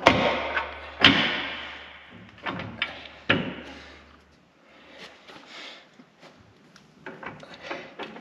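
Hammer blows on steel, driving the pivot bolt through the replaced boom bushing of a Bobcat T250 skid steer: about five hard strikes in the first few seconds, each ringing out, the two loudest first. Lighter metal clinks and taps follow.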